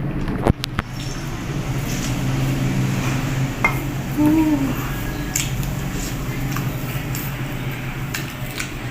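Eating sounds: close-up chewing and a few sharp clicks of utensils against a plate, over a steady low hum.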